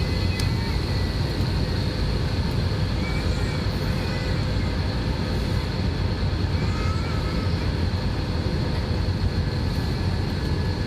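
Steady jet airliner noise during a landing approach: a constant low rumble with a thin, steady high whine above it.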